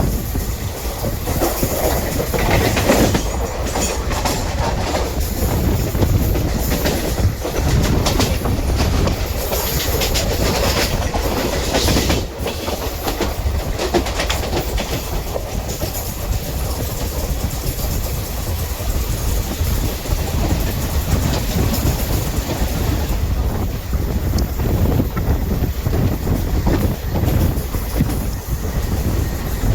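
A passenger train running on the line, a steady rumble with the wheels clicking over rail joints. The clicks come thicker in the first half.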